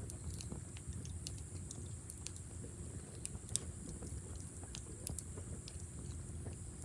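Campfire crackling: irregular small pops and snaps from burning wood, over a low rumble and a steady high hiss.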